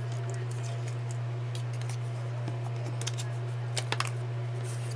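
Light paper-crafting handling sounds: scattered soft ticks and rustles, with three quick sharp clicks of scissors a little before the end, over a steady low hum.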